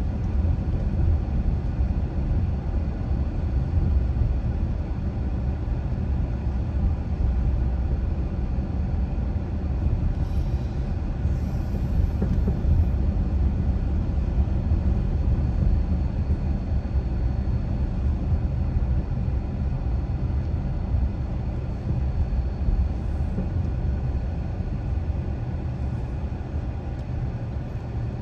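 A car driving: steady low rumble of tyres on the road and engine noise.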